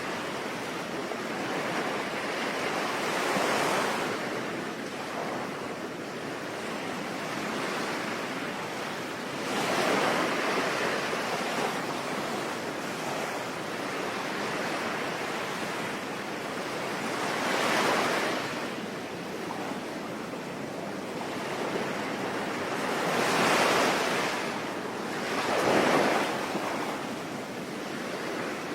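Sea waves breaking on a shore over a steady hiss of rain, the surf swelling up and falling back about five times.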